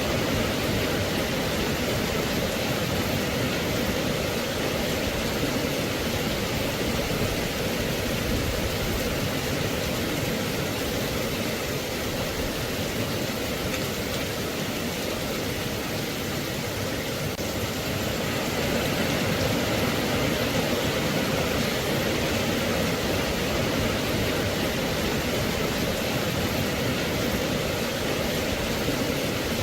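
Steady rain, an even hiss with no single drops, thunder or other sounds standing out.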